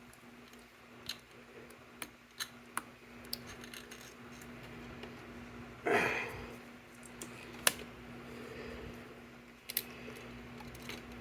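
Scattered small sharp clicks and snips of hand tools and wire connectors being worked on scooter wiring, with a louder rustle about six seconds in. A steady low hum runs underneath.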